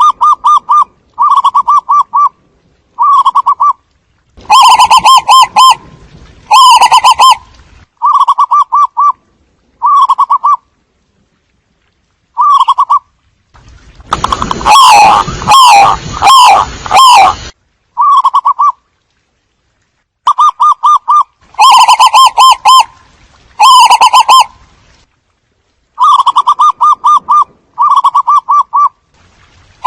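Zebra doves cooing: a loud series of short, rapid, rolling trilled coos, each lasting about a second, repeated with brief pauses. About halfway through there is a denser few seconds where several calls overlap.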